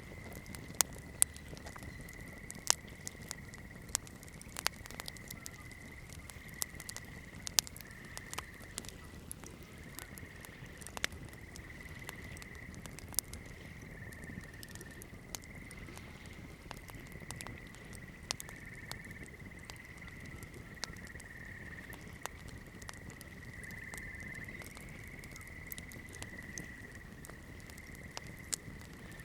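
Campfire crackling: burning wood giving irregular sharp pops and snaps, a few much louder than the rest, over a soft low rush. A thin high-pitched tone that wavers slightly in pitch runs under it.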